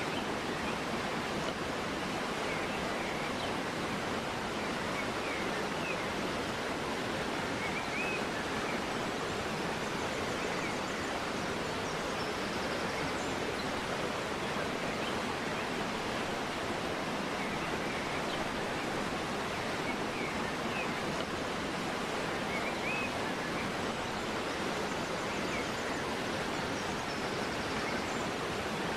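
River flowing through a forest, a steady rush of water, with faint bird chirps a few times.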